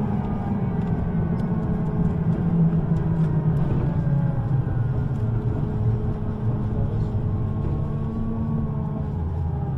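U-Bahn train running, with a steady wheel-and-track rumble and a motor whine that slides slowly in pitch.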